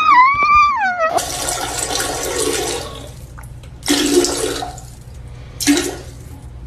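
A dog whining in high, wavering cries for about a second, then a rushing hiss lasting about two seconds, followed by two shorter bursts of hiss.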